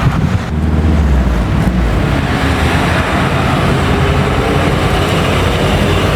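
Car engine running loud and steady, its note slowly rising near the end.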